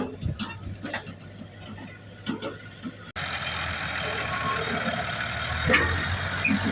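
An engine running steadily, loud and continuous after a sudden cut about three seconds in. Before that, quieter scattered clicks and knocks over a low hum.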